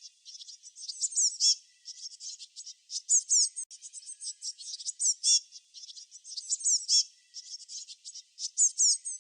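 Small songbirds chirping: many quick, high-pitched chirps overlapping, with louder phrases of fast downward-sweeping notes every couple of seconds.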